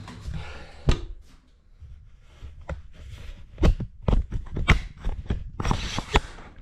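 A series of knocks, clunks and clicks from metal parts and tools being handled, with several sharp ones in quick succession in the second half.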